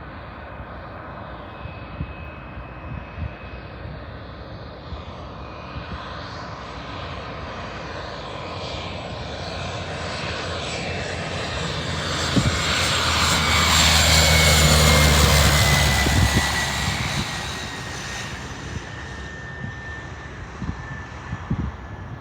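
Light piston-engine propeller plane passing close by. Its engine grows louder over the first dozen seconds, is loudest about two-thirds of the way in, then fades with its pitch dropping as it moves away.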